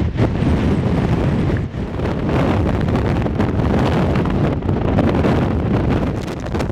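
Very strong wind blowing hard across the microphone, a loud continuous rush of noise strongest in the low end.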